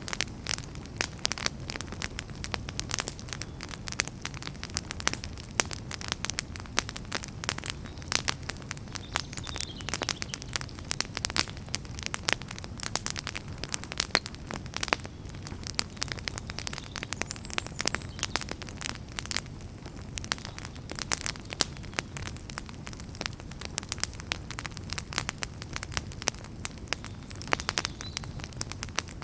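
Wood fire burning with dense, irregular crackles and snaps over a steady low rumble of flames.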